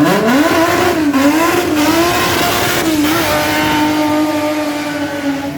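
Rally car engine revving high: the pitch sweeps up sharply at the start, rises and falls for a few seconds, then holds steady at high revs before easing slightly near the end.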